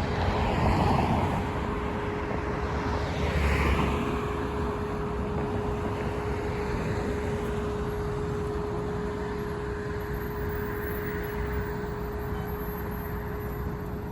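Road traffic noise: the steady rush of passing vehicles, swelling twice early on, with a steady tone running underneath.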